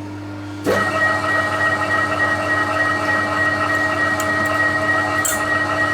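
TOS milling machine spindle starting up in reverse, under a second in, and then running on with a steady gear whine, turning a left-hand drill bit to extract a broken stud.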